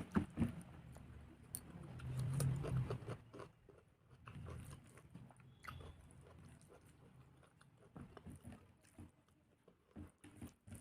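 A person chewing a mouthful of rice, dal and vegetable fries, with many short wet clicks and smacks and now and then a soft crunch.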